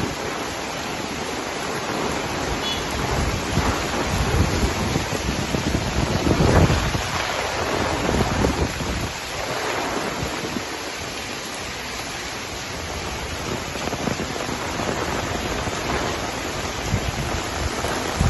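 Heavy rain falling in strong wind, with gusts buffeting the microphone in low rumbles that come and go; the strongest gust comes about six to seven seconds in.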